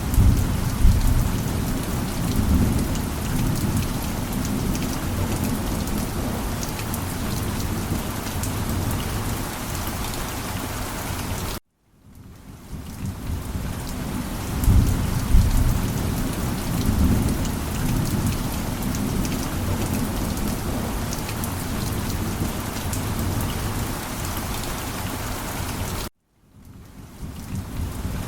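Steady heavy rain with low rolling thunder, the rumbles strongest about a second in and again around fifteen seconds in. The sound cuts out suddenly twice, near twelve and twenty-six seconds in, and fades back in each time.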